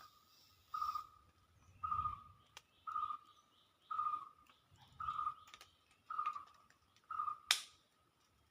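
A forest bird calling one short, steady-pitched note over and over, about once a second, about seven times. A single sharp click sounds near the end.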